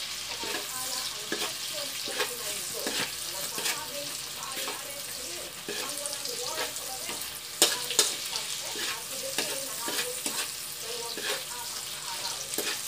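Shrimp frying in hot oil with garlic and chilli in a metal wok, sizzling steadily while a metal spatula stirs and turns them, scraping and clacking against the wok; the loudest clack comes a little past halfway.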